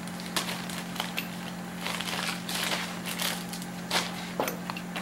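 Small hardware being rummaged through and handled: irregular clicks and rustles of nuts and parts, over a steady electrical hum.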